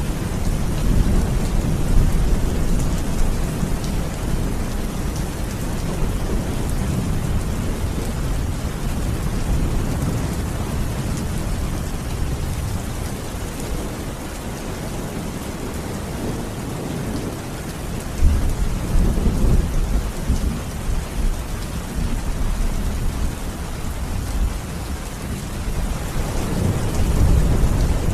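Steady heavy rain, with low rolling thunder rumbling up a few times: near the start, about two-thirds in, and near the end.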